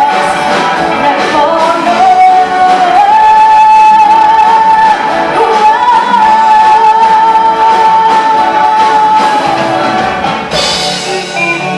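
A song performed live: a singer glides up and holds a long, high note with vibrato over instrumental accompaniment. The voice falls away near the end and a lighter, chiming pattern of repeated notes takes over.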